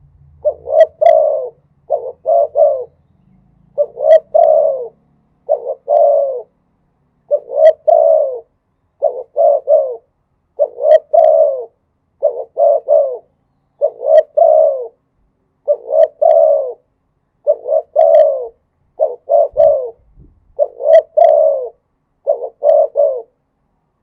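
Spotted dove cooing: about a dozen phrases of two or three low coos, one every second or two, stopping shortly before the end. A brief low thump comes partway through.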